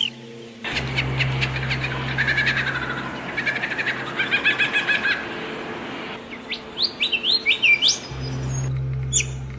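Songbirds chirping and singing: quick trills and rapid runs of repeated notes, then a series of short upward-sliding whistles near the end, over a steady low hum and hiss.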